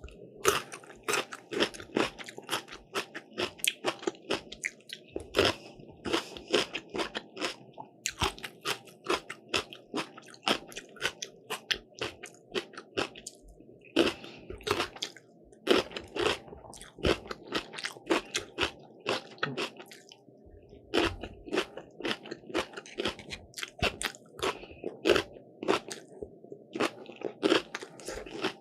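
Crisp croffle being bitten and chewed close to the microphone: quick runs of sharp, crackly crunches with a couple of short pauses.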